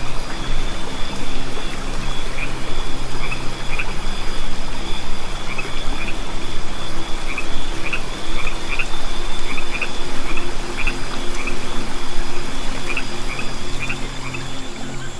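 Frogs calling in a chorus, short chirping calls repeating irregularly over a steady hiss.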